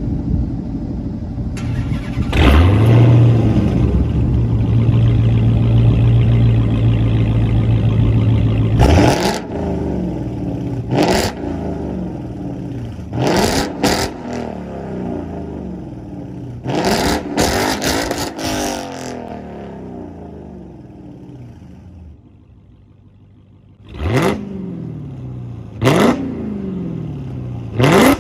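Car engine revving loudly: one long rev held for several seconds, then a series of short revs, each opening with a sharp crack and climbing in pitch. It dies down briefly near the end before three more cracks and revs.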